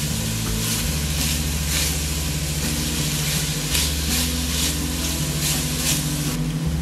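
Diced carrots and celery sizzling as they sauté in an enamelled cast-iron Dutch oven, with the repeated scrape of a spatula stirring them.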